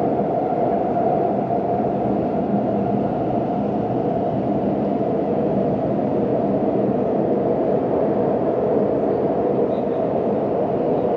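CRRC Puzhen Type B metro train running steadily between stations, heard from inside the passenger car as an even rumble.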